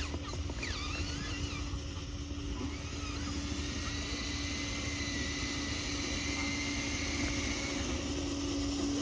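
Small electric drive motor of a handmade RC construction truck running with a steady hum, growing louder near the end, with birds chirping briefly early on.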